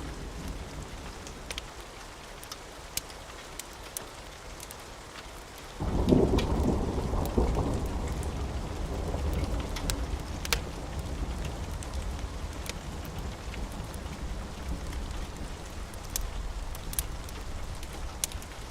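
Steady rain with scattered sharp ticks of drops. About six seconds in, thunder breaks in suddenly as a deep rumble that rolls on and fades slowly over the next several seconds.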